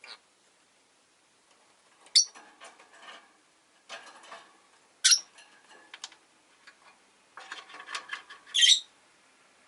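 Rosy-faced lovebirds: three short, sharp, high-pitched chirps a few seconds apart, with quieter scratchy rustling between them.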